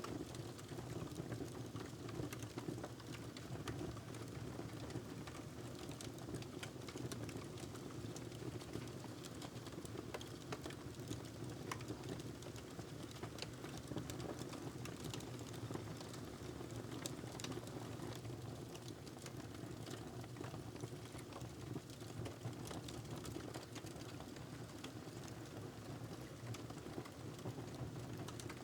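Wood fire crackling in a fireplace: a steady low rush of burning with frequent small pops and snaps scattered throughout.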